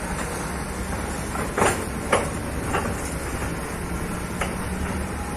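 Hitachi ZX hydraulic excavator's diesel engine running steadily, with four sharp knocks about a second and a half to three seconds in and again near the end.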